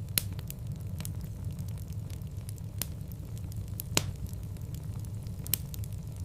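Wood fire burning in a fireplace: a steady low rumble with scattered sharp crackles and pops, the loudest pop about four seconds in.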